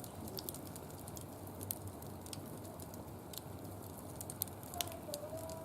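Wood fire crackling, with frequent irregular sharp pops over a low steady rustle of burning. A faint wavering tone comes in near the end.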